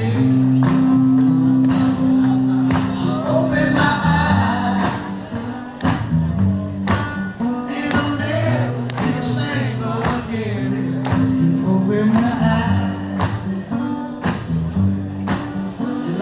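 Live band playing a rock song, with a steady drum beat, a moving bass line and guitar; a voice sings at times.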